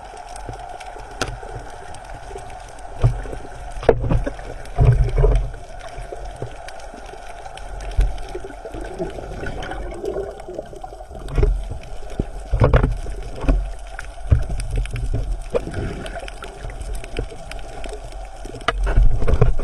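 Water gurgling and sloshing, with irregular low thumps and a few sharp knocks.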